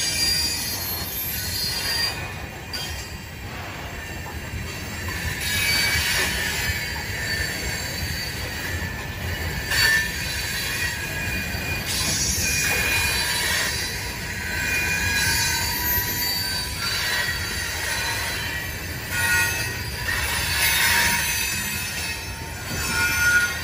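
Loaded coal hopper cars rolling past, their steel wheels squealing on the rails in shifting high-pitched tones over a steady low rumble of wheels on track.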